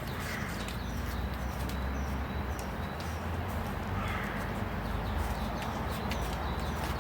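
Small bird's short, high chirps repeating about twice a second over a steady low hum and background hiss.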